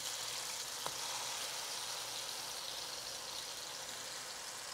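Whole figs frying in coconut oil in a nonstick wok, a steady high sizzle, with one light click of the fork against the pan about a second in.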